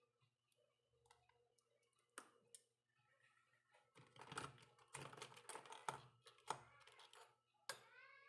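Faint, quick clicking and tapping, sparse at first, then in dense runs like typing through the second half. A voice begins right at the end.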